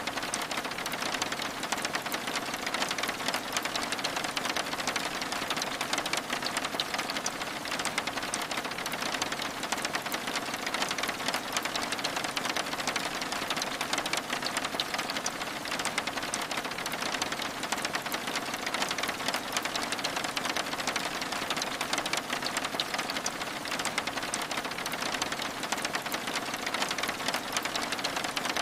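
Steady rain on window glass: a dense, even patter of drops with many fine ticks, unchanging throughout.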